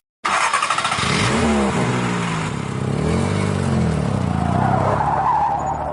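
Motor vehicle engines revving, their pitch rising and falling several times.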